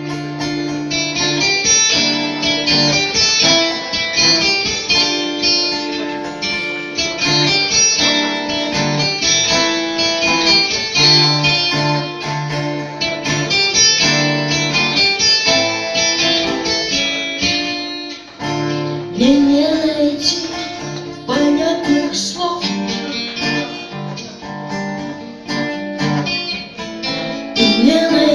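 Live band playing the instrumental introduction of a rock song, led by strummed and picked guitars. About two-thirds of the way in there is a short lull, after which sliding pitches come in over the band.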